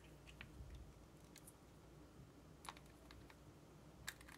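Faint, sparse clicks of LEGO plastic parts being handled and fitted together, the clearest about two and a half seconds in and again near the end.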